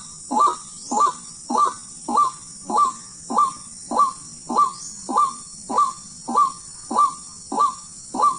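White-breasted waterhen (ruak-ruak) calling: a harsh, rising 'kru-ak' note repeated at an even pace, a little under two calls a second, over a steady high hiss.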